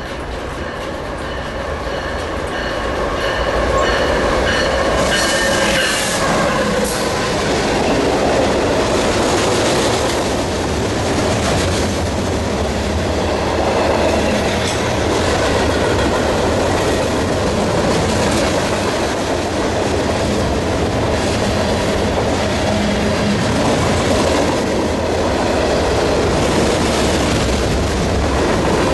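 A CSX manifest freight train rolling past, its freight cars' wheels clacking over the rail joints. It grows louder over the first few seconds, and a ringing tone fades out about six seconds in.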